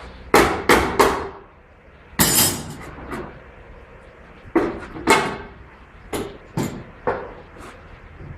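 Hammer blows during work on a GAZelle van, about ten irregular strikes, some in quick pairs, with short ringing after the louder ones.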